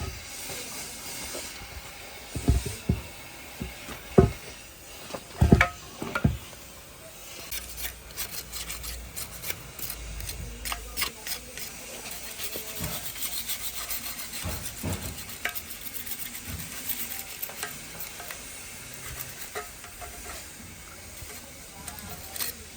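Metal parts and tools being handled in a workshop: a few sharp knocks in the first several seconds, then light clinking and scraping over a faint hiss.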